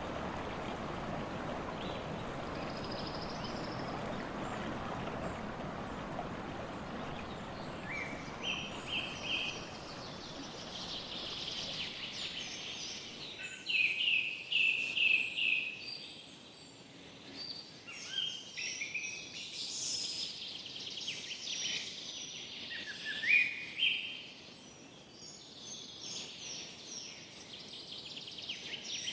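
Songbirds singing in a forest: repeated chirps, short trills and quick rising notes, loudest around the middle. A steady rush of running water underlies the first part and fades out as the birdsong takes over.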